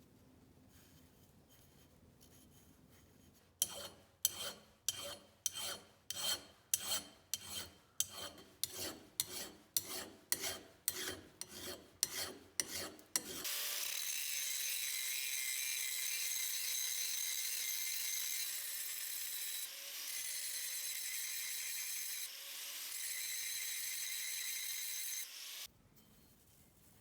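A hand file rasping across the steel head of a splitting maul in about twenty strokes, about two a second, then a power grinder running steadily on the steel for about twelve seconds, dipping briefly twice.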